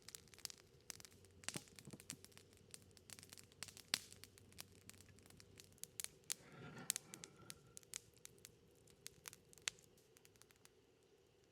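Wood fire crackling: sharp, irregular pops and snaps, several a second, with a brief softer rustle about six seconds in.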